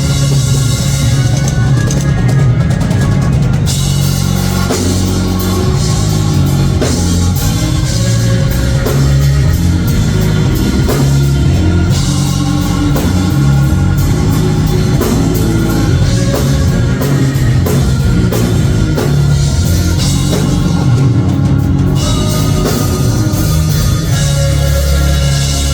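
Church band playing with a drum kit and guitar at a steady beat, heavy in the bass.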